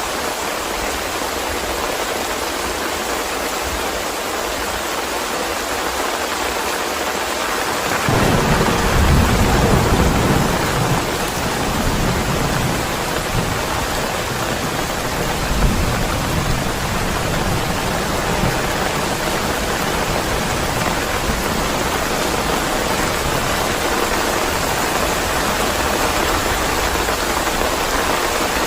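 Steady heavy rain hissing. A low rumble of thunder breaks in about a third of the way through, is loudest for a few seconds and then fades. A shorter low thump of thunder comes near the middle.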